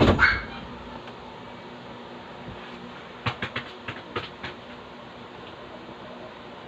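Steady mechanical hum in a room, with a loud sudden noise right at the start and a quick run of sharp clicks or taps about three to four and a half seconds in.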